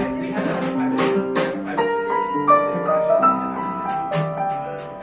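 Live jazz band playing a standard, with piano to the fore: held notes in a melody that moves up and down in steps, over light, regular percussion ticks.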